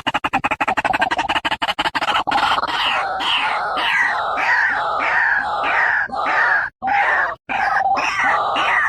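White-breasted waterhen calling: a rapid clicking chatter for about two seconds, then a run of harsh, falling croaks about two a second, played as a lure call.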